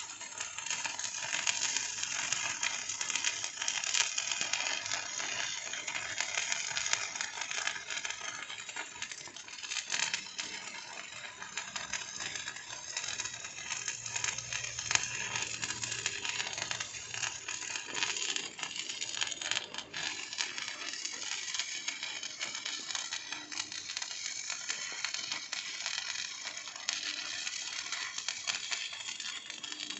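Electric arc welding, a steady crackling sizzle of many fine snaps that runs on without a break.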